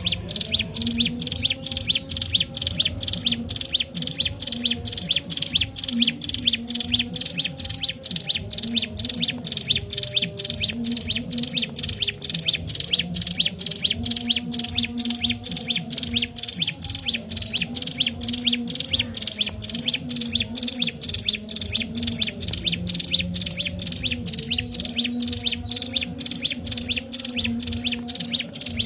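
Ciblek gunung (mountain prinia) singing without pause: a fast, even run of short, high chirps, about three a second.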